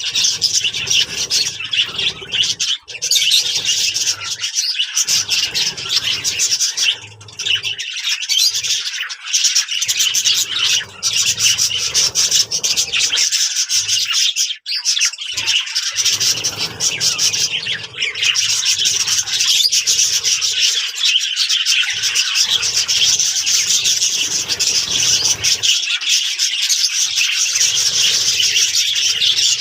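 A flock of budgerigars chattering and warbling continuously, a dense high twittering of many birds at once.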